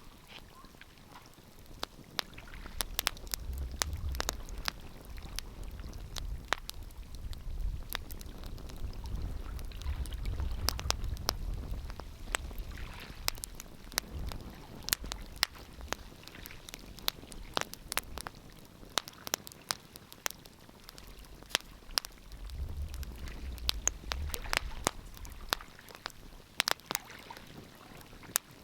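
Wood fire crackling in a fireplace: sharp irregular pops and snaps over a soft hiss. A low rumble swells under it twice, early and again near the end.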